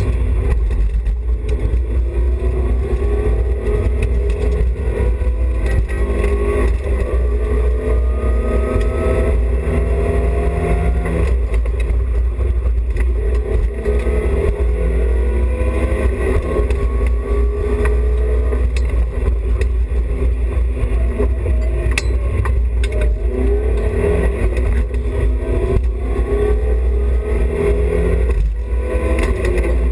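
Onboard sound of a BMW E30 316i rally car's 1.6-litre four-cylinder engine under hard acceleration. Its pitch climbs, drops and climbs again several times as it works through the low gears, over a heavy low drone from inside the car.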